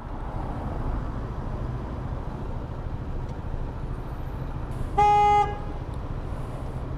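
Steady low rumble of a motorcycle riding along, with wind noise, and a single short blast of a vehicle horn about five seconds in.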